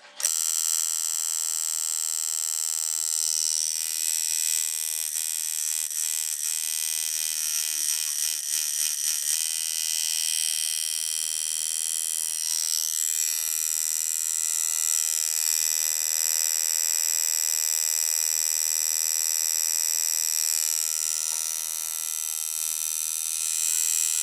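Coil tattoo machine (shader) running with a steady electric buzz. Its pitch wavers for a few seconds between about five and ten seconds in.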